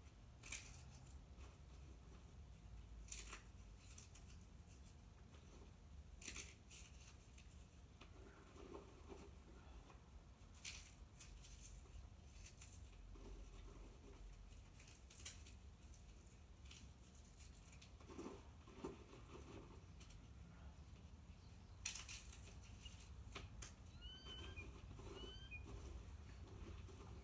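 Small birds feeding: faint scattered taps and pecks every few seconds over a low background rumble, with a few short high chirps near the end.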